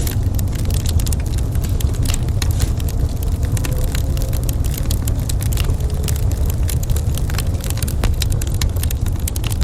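Wood fire crackling in a fireplace: a dense run of irregular sharp pops and snaps over a steady low rumble.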